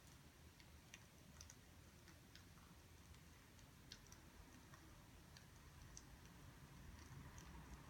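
Near silence: a low room hum with scattered soft, irregular clicks.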